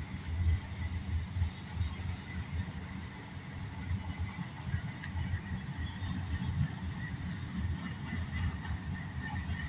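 Train rolling past with a steady low rumble.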